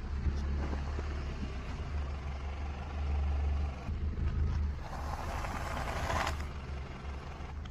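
Car engine running at low speed with a steady low hum. A soft hiss comes in about five seconds in and stops a second or so later.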